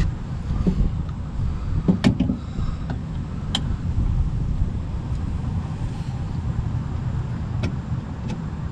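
Steady low rumble with a few sharp clicks and knocks, about four, spread through: parts and tools being handled during the window regulator install in the car door.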